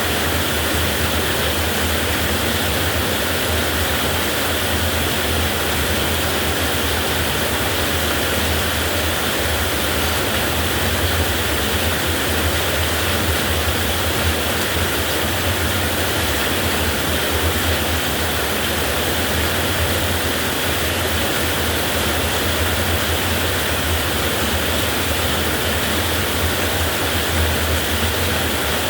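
Heavy rain pouring steadily as a dense, even hiss with a low rumble underneath, with no thunderclap.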